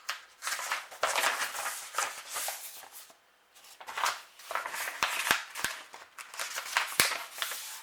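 Paper and packaging being handled, rustling and crinkling in two spells with a short pause between, with a few sharp clicks in the second half.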